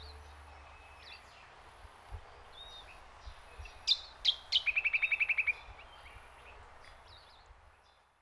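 Birds chirping over a faint outdoor hiss. About four seconds in, two sharp falling calls, then a quick run of about ten repeated notes lasting about a second.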